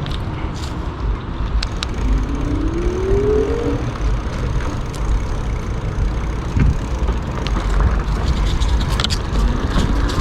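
E-bike riding along with steady wind rumble on the mic and tyre noise, scattered with a few light ticks. The motor's whine rises in pitch as it speeds up, about two seconds in and again near the end.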